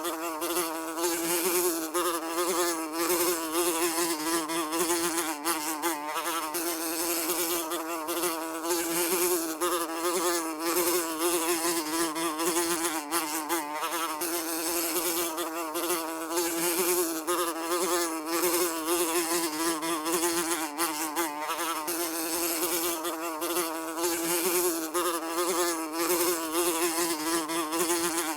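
A fly buzzing continuously, its wingbeat hum holding one note that wavers slightly in pitch.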